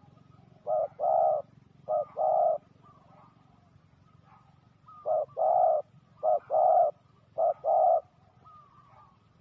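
Spotted dove cooing: five calls, each a short coo followed by a longer one. Faint chirps of other birds lie in the background.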